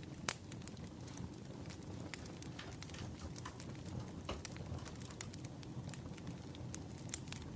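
Firewood burning: irregular sharp crackles and pops over a steady low rumble.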